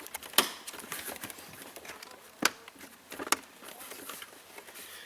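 A fuse box and its wiring handled into place: three sharp plastic clicks, with light rustling and crackling between them.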